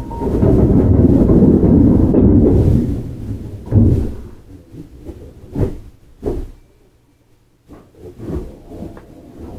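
Sounds inside a Keihan 9000 series train car: a loud rumbling noise for about three seconds that fades, then a few short sharp knocks, with a brief near-quiet spell near the end.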